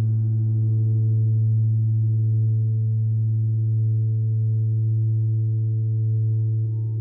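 Gong ringing on after a strike: a steady low hum with fainter higher overtones shimmering above it.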